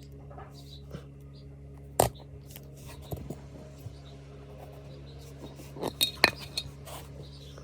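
Small metal parts of a PCP air rifle clicking and clinking as they are handled and fitted together. One sharp click comes about two seconds in and a quick cluster of clicks near six seconds, over a steady low hum.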